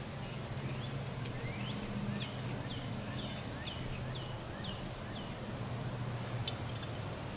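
A songbird singing a run of about nine repeated slurred notes, roughly two a second, over a steady low hum, with a sharp click near the end.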